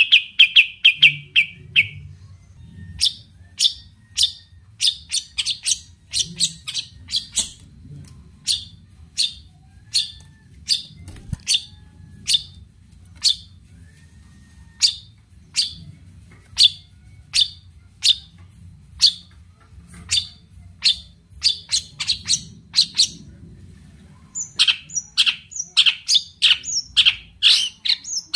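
Long-tailed shrike (cendet) singing. A fast trill in the first two seconds gives way to a long run of short, sharp notes at about one or two a second, which quicken into a rapid burst near the end.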